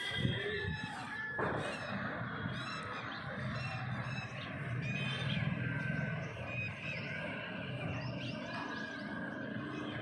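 Several birds chirping and calling, many short overlapping chirps throughout, over a steady low background rumble.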